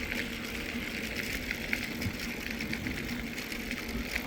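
Mountain bike rolling along a hard-packed sand and gravel trail: steady tyre and riding noise with small rattles and ticks.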